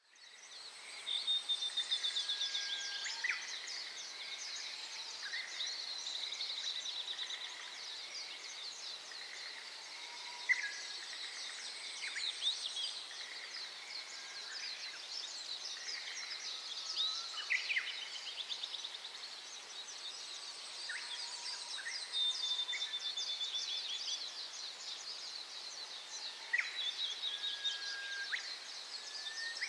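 Small birds singing and calling over one another: a dense, quick, high twittering, with clear whistled notes and short sweeping calls scattered through it.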